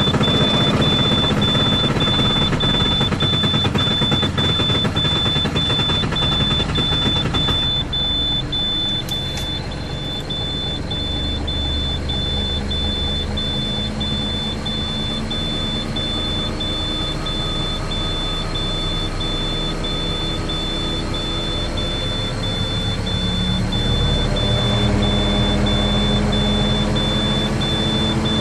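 International 4300's DT466E inline-six diesel running just after a cold start at about −20 °C with no block heater, with an evenly repeating high warning beep over it. The engine's sound eases about eight seconds in, and its idle rises slightly near the end.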